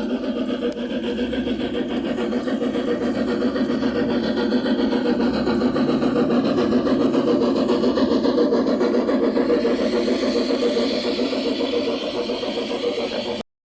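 G-scale model locomotive running on a garden railroad, a steady drone that cuts off abruptly near the end.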